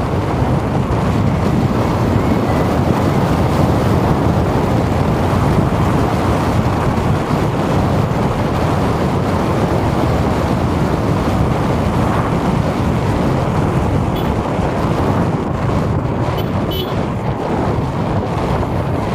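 Steady, loud city street noise with a low traffic rumble and no distinct events.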